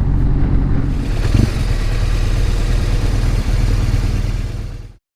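Motorcycle engine running steadily under way, with road noise. It fades out near the end.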